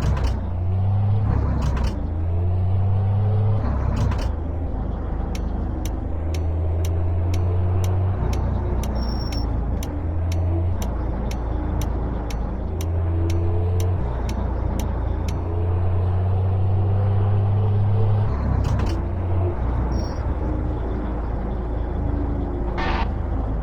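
Truck engine running, heard from the cab, its pitch stepping up and down as it changes speed and gear. A turn signal ticks steadily, two or three times a second, for about ten seconds in the middle, and a short hiss of air comes near the end.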